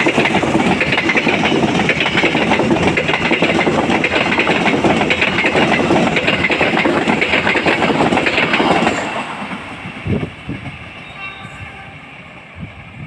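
A train passing close by, its wheels running over the rails in a loud, continuous noise that falls away suddenly about nine seconds in, leaving a few faint knocks.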